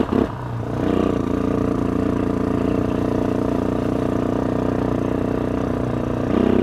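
Carbureted ATV engine running steadily as the quad is driven. It picks up about a second in and rises again near the end.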